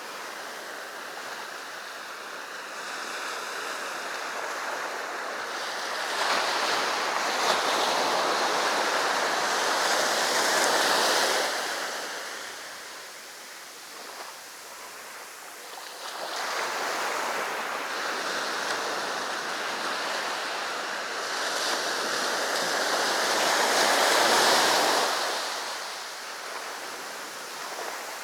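Sea surf washing onto the shore: two long surges of breaking waves, each building over several seconds and then falling away, with a quieter wash between them.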